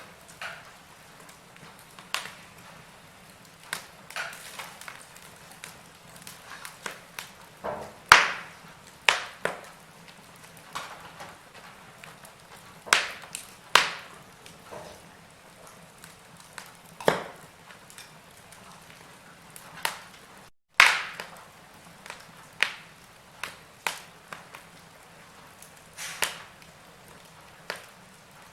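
Wood fire burning in a fireplace: irregular sharp crackles and pops over a low, steady hiss, with a couple of louder snaps.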